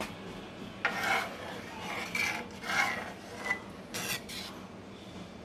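A utensil stirring milk and cream in a pan, scraping across the pan's bottom in a series of short rasping strokes.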